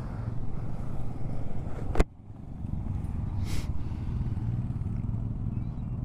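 Motorcycle engine running steadily under wind noise on the microphone, with a sharp click about two seconds in.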